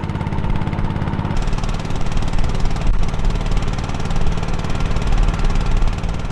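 Motorboat engine running steadily while under way on the river, its pitch shifting slightly about a second and a half in.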